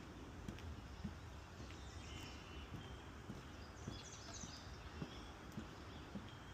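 Footsteps on a wooden boardwalk, about two steps a second, with a few short birdsong notes about two and four seconds in.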